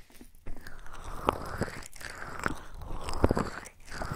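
Close crackling and scratching ASMR trigger sounds against a binaural microphone, coming in swells with a few sharp clicks.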